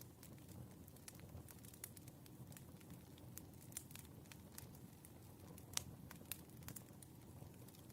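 Firewood burning: irregular small crackles and pops over a low steady rumble, with a couple of louder pops about three-quarters of the way through.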